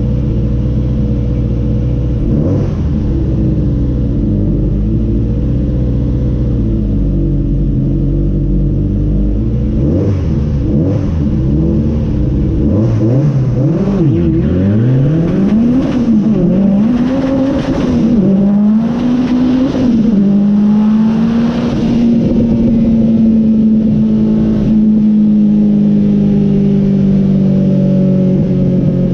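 Twin-engine Vauxhall Corsa drag car heard from inside the cabin: the engines idle steadily, then about halfway through they rev up and drop back several times as the car pulls through the gears on a run. Near the end they settle to one steady, slowly falling note as the driver comes off the power.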